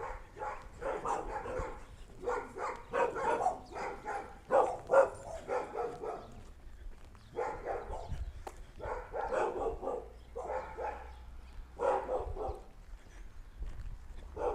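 A dog barking repeatedly in runs of quick barks with short pauses between them, over a low steady rumble.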